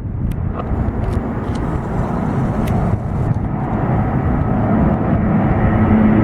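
Jet airliner engines heard from the ground, a steady rumble that grows louder, with steady tones coming in near the end.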